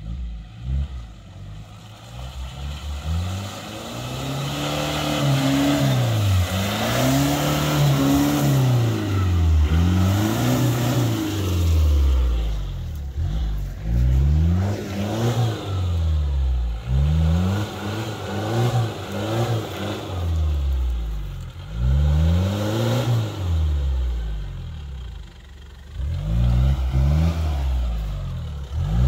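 Off-road 4x4 engine revving up and dropping back again and again, about every two to three seconds.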